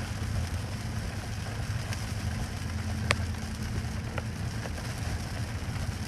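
Heavy rain falling steadily, with a few sharp taps of drops striking close by, the clearest about three seconds in.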